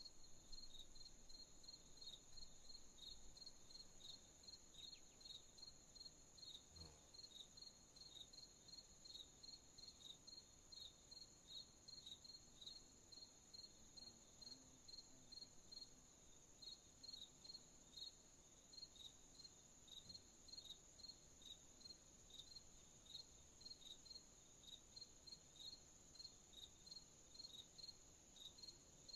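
Crickets chirping in a steady, even rhythm of about two to three chirps a second, over a continuous high-pitched insect trill; faint night ambience.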